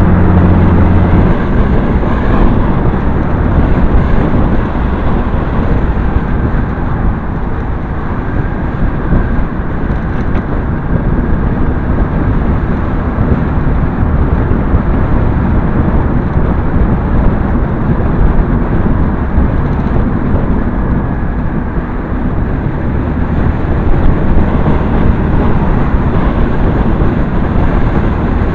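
Motorcycle on the move, heard through a bike-mounted camera's microphone: a loud, continuous rush of wind noise with the engine running underneath. A steady low engine hum stands out only in the first second or so.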